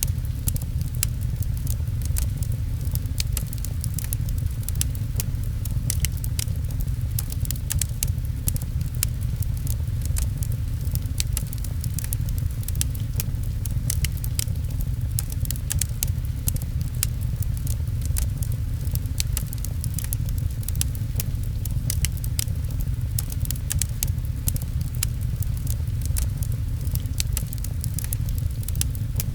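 Rain and a crackling fireplace fire mixed together: a steady low rumble under a dense scatter of small, sharp crackles.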